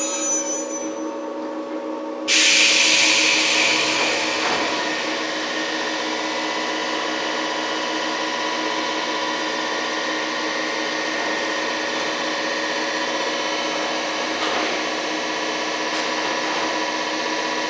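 Inside a 115 series electric train's motor car: a steady hum of the onboard equipment, with a sudden loud rush of air hiss about two seconds in that fades away over the next couple of seconds.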